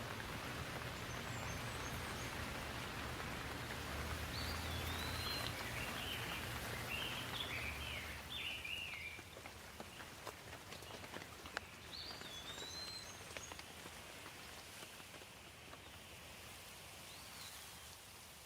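Steady rain falling, easing a little about eight seconds in, with birds chirping several times over it and a low hum in the first half.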